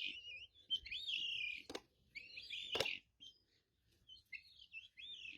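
Faint bird chirping in short, warbling bouts, with two soft clicks in the first three seconds.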